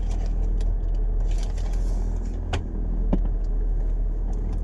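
Steady low hum of a car idling, heard from inside the cabin, with light rustling and two sharp clicks about two and a half and three seconds in.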